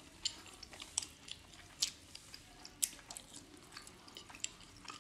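Two people chewing and biting soft momo dumplings: a scatter of short mouth clicks and smacks, the sharpest about once a second.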